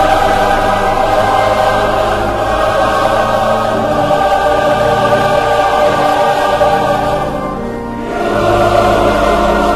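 Choral music: a choir singing sustained chords over instrumental backing, dipping briefly near the end before swelling again.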